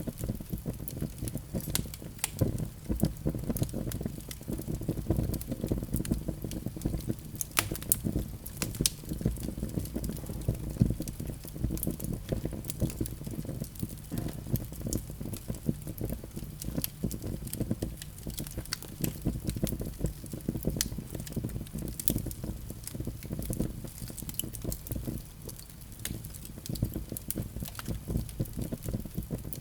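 Wood fire burning in a fireplace: a low, steady rush of flame with frequent irregular crackles and pops from the logs.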